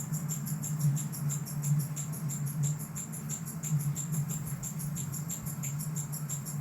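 Fast, even, high-pitched ticking, about nine ticks a second, over a steady low hum.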